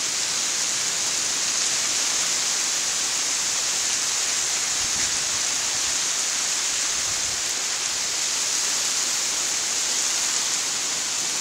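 Heavy thunderstorm rain falling steadily, a constant hiss with no breaks.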